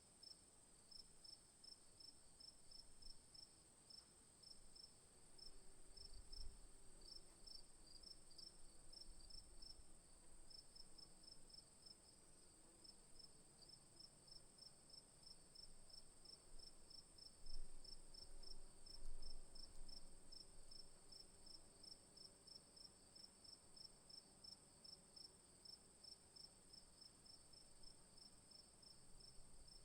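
Insects calling: a steady high-pitched whine under a fast, regular chirping that runs on without a break. A few faint low thumps come in around the middle.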